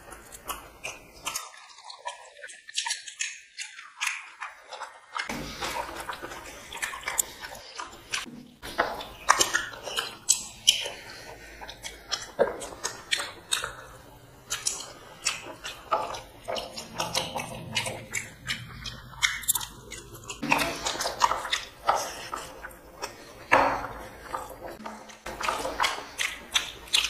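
Close-up eating sounds: people chewing mouthfuls of mutton biryani with rice and meat eaten by hand, with frequent irregular lip smacks and small clicks.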